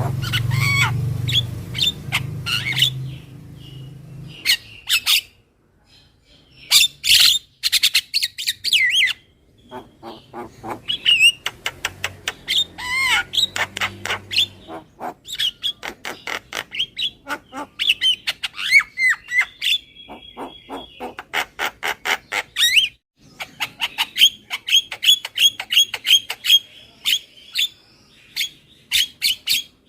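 Javan myna (jalak kebo) calling in quick runs of harsh squawks, chattering clicks and short whistled notes, the lure call used to attract mynas. A low hum sits under the first few seconds.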